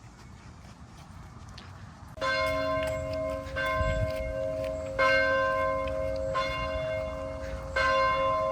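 Church bell tolling, starting about two seconds in: a strike roughly every second and a half, each note ringing on into the next.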